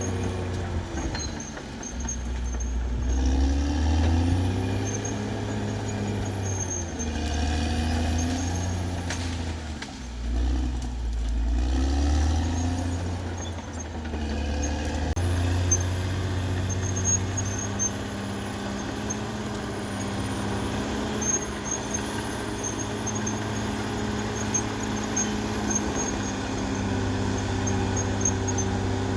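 Caterpillar D6R XL bulldozer's diesel engine working, its pitch swelling and sinking every few seconds as the load comes and goes. It settles to a steadier pull about halfway through, with a thin high whine and faint clinking over it.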